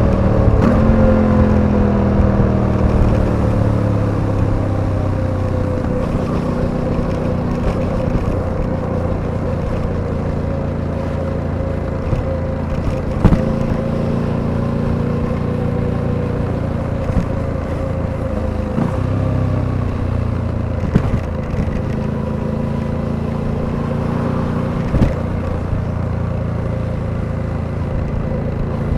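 Suzuki V-Strom 800DE's parallel-twin engine under way. Its pitch falls over the first several seconds as the bike slows, then it runs steady at a constant pace, with a few short sharp clicks along the way.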